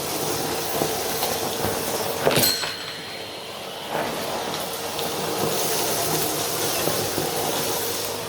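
Vacuum cleaner running with a steady whooshing hum, a sharp knock about two seconds in, a short dip in suction noise after it, then running steadily again.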